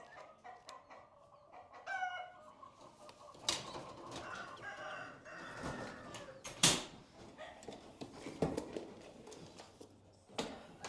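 Birds calling in a loft, in short pitched calls, with a few sharp knocks or clatters, the loudest about two thirds of the way through and near the end.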